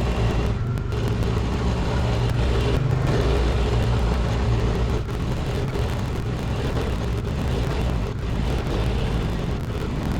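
Diesel engine of a Cat 307SSR mini excavator running steadily under work, a low hum that eases off slightly about halfway through.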